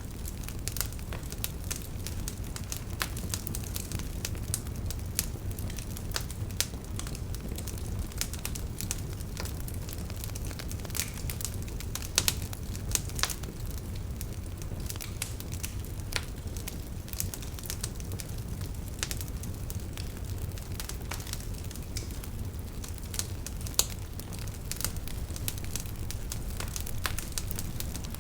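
Wood fire burning in a fireplace: a steady low rumble of flames with constant irregular crackling and occasional sharper pops.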